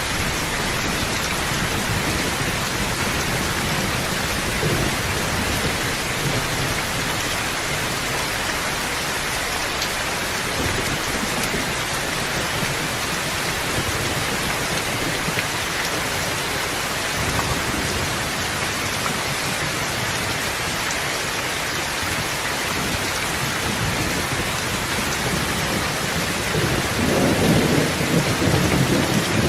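Steady heavy rain falling, with a low rumble of thunder swelling near the end.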